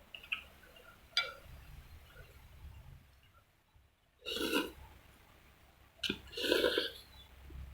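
A person burping twice while eating, each burp about half a second long, the first about four seconds in and the second a couple of seconds later, with a small click about a second in.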